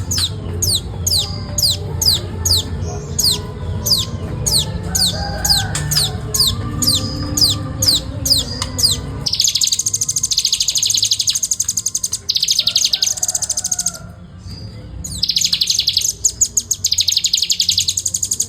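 Velvet-fronted nuthatch calling: a run of sharp, high notes, each sliding downward, about three a second. About nine seconds in it switches to a fast, dense high trill, broken twice by short gaps.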